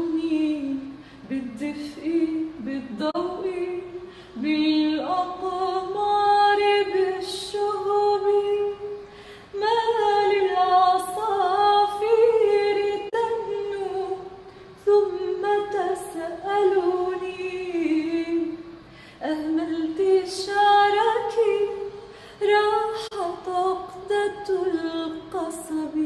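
A high solo voice singing unaccompanied, drawing out long ornamented notes in phrases with short breaths between them.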